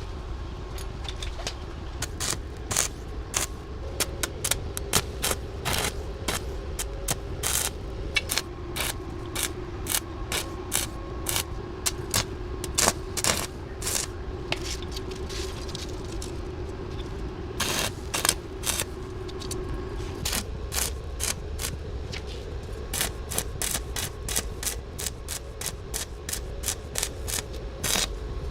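Metal parts and hand tools clinking, clanking and scraping in quick irregular clicks, as in workshop repair work on an air compressor, over a steady low hum.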